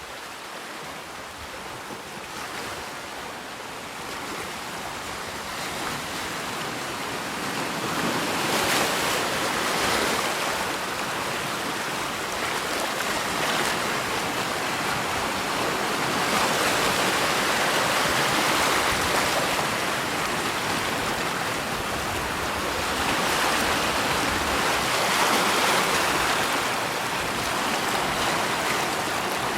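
Rushing water fading in over the first few seconds, then a steady rush that swells and eases every few seconds.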